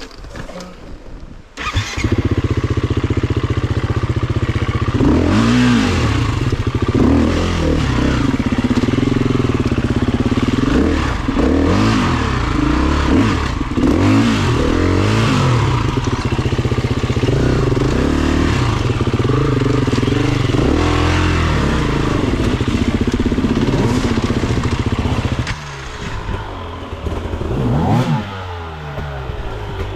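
Honda CRF250F single-cylinder four-stroke trail motorcycle engine riding off-road, repeatedly revving up and falling back. It comes in loud about two seconds in and eases off to a lower level near the end, with a few more revs.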